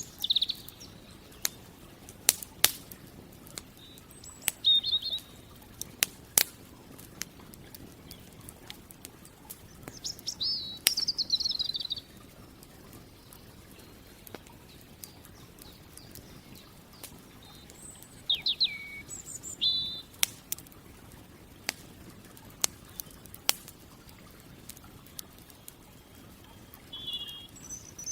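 Campfire crackling, with sharp pops every second or so, while small birds call: brief high chirps, a rapid warbling phrase about ten seconds in, and more calls a little before twenty seconds.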